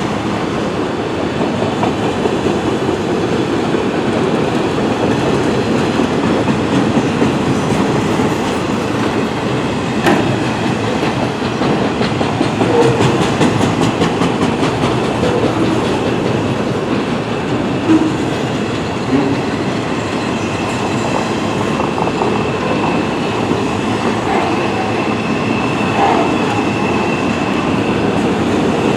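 Freight train cars rolling past close by at speed: a steady rumble of steel wheels on rail with the occasional clack and knock over joints, and a faint wheel squeal in the second half.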